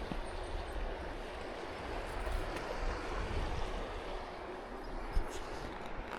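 Steady rushing of strong wind through forest trees, with low rumble from wind on the microphone and a short knock about five seconds in.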